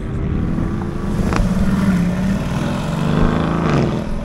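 Sports car engine accelerating hard, its note climbing and then dropping back in steps as it changes gear. A single sharp crack is heard about a second and a half in, over a low rumble of wind on the microphone.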